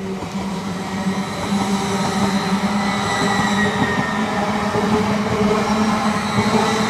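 Passenger train running past close by on the adjacent railway line. It makes a continuous rumble with a steady hum, growing louder as it passes.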